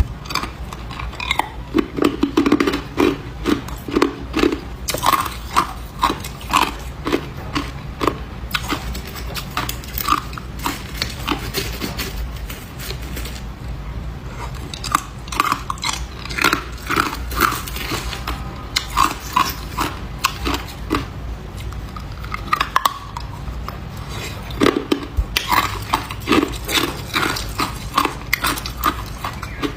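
A person biting and chewing hard ice close to the microphone: loud, repeated crunching and cracking in clusters, with a couple of short lulls.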